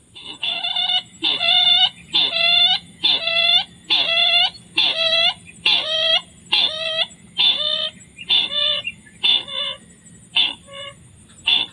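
Sintar ladang bird calling, the call this trapper uses to lure the species to snares: a long run of harsh repeated notes, about one and a half a second, each dipping in pitch then levelling, weaker in the last few seconds.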